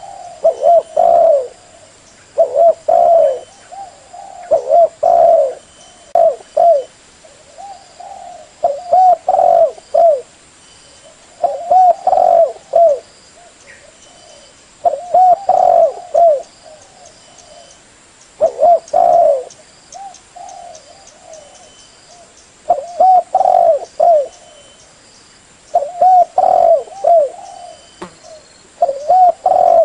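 Spotted dove cooing: about ten short phrases of several low coos each, one phrase every two to four seconds.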